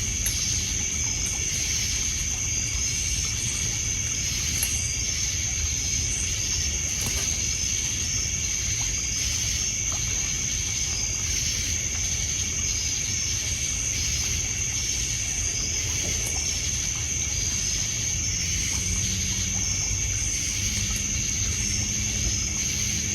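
Night insects (crickets) trilling steadily at a high pitch, with fainter repeated chirps layered over it and water lapping low underneath. A few faint crackles from the campfire.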